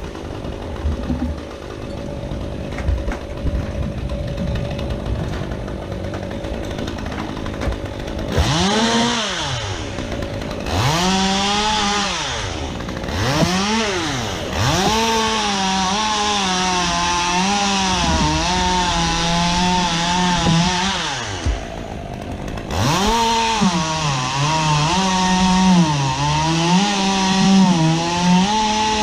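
Two-stroke chainsaw. A quieter steady running sound lasts about eight seconds; then the saw revs up and down three times and runs at high speed under load, its pitch wavering as it cuts. It drops off briefly about 21 seconds in, then cuts again.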